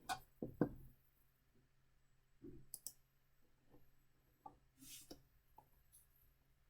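Faint, scattered clicks and light knocks, several in the first second and more from about two and a half to six seconds in, over a faint steady hum.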